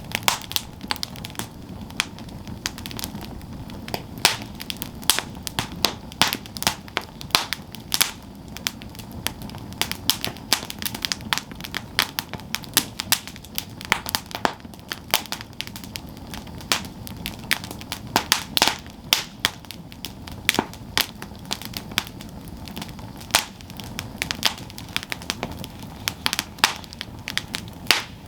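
Wood campfire burning, with irregular sharp crackles and pops from the burning wood over a steady low rush of flames.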